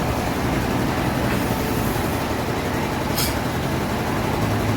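Sawmill machinery running steadily: a low hum under a broad mechanical noise, with a brief high hiss about three seconds in.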